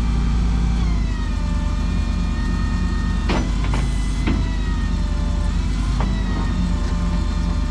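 Rollback tow truck running with its bed hydraulics working: a steady whine over the engine that drops in pitch about a second in. A few sharp metal clanks come near the middle.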